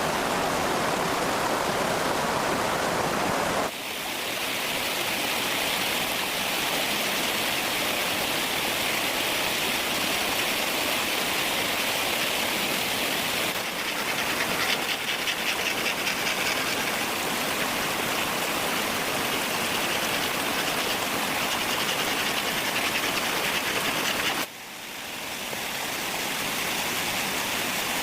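Steady rushing noise of running water, whose tone changes abruptly twice, about four seconds in and near the end.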